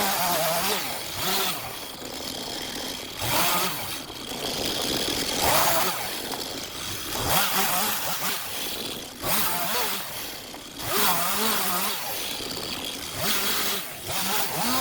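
STIHL MS 251 two-stroke chainsaw running, its engine note rising and falling repeatedly as the throttle is opened and eased, with louder surges about every one to two seconds.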